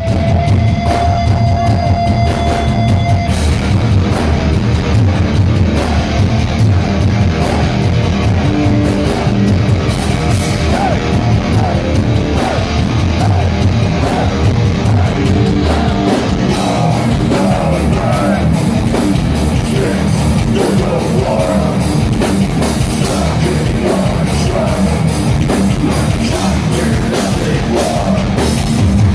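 Heavy metal band playing live: distorted guitars, bass and pounding drums, with a singer's voice.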